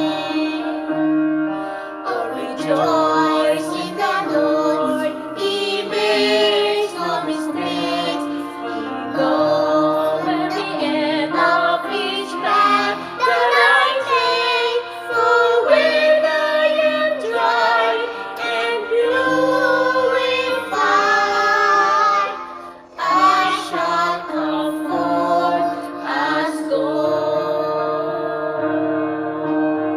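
A family's voices singing a worship song together over a held instrumental accompaniment. The singing breaks off briefly about three-quarters of the way through, then resumes.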